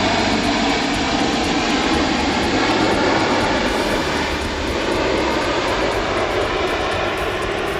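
Jet engines of a Cathay Pacific Airbus A330 landing: a loud, steady roar of engine noise that eases slightly toward the end.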